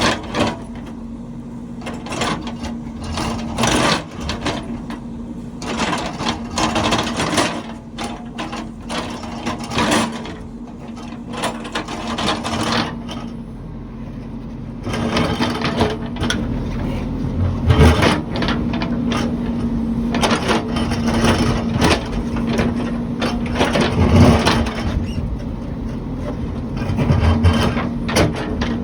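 Heavy construction machine working: its engine runs with a steady hum under frequent irregular clanks and knocks, denser in some stretches than others.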